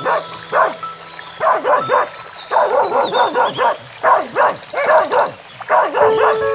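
An animal giving short calls in quick bouts, about two a second, each call falling in pitch, over soft background music.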